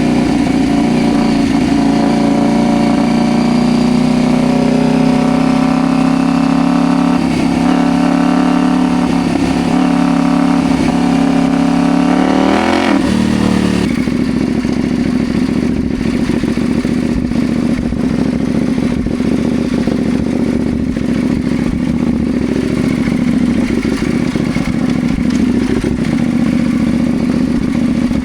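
CFMoto Ibex 800 T motorcycle's parallel-twin engine running at a steady cruise. About halfway through its pitch rises sharply and then drops to a lower, rougher note with a lot of rattling clatter.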